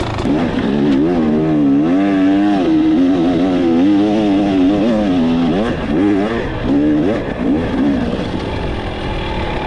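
KTM 300 XC TBI two-stroke single-cylinder dirt bike engine revving hard under way, its pitch rising and falling with the throttle. The revs drop and pick up again several times in the second half.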